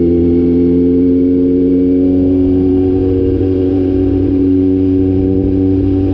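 Kawasaki Z900 inline-four engine running through a cat-delete exhaust (catalytic converter removed), holding steady revs with only a slight dip and a slight rise in pitch.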